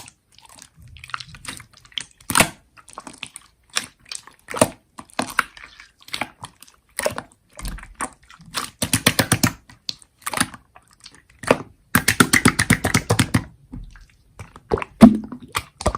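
Slime being squished and kneaded by hand, making wet clicks and pops as air pockets burst, with two fast runs of crackling pops partway through.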